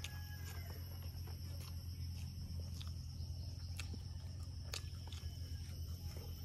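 A person chewing a mouthful of rice and curry eaten by hand, with scattered sharp wet clicks and smacks. Underneath, a steady high insect drone and a low steady hum.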